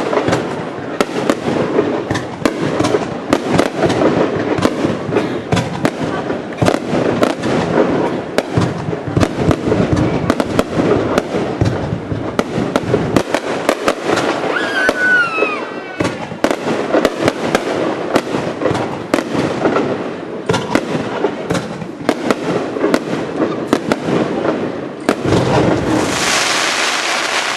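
Fireworks display heard from close by: a dense, rapid barrage of shells bursting, bang after bang with echoing tails. A short gliding whistle cuts through a little past halfway, and a loud rushing hiss comes near the end.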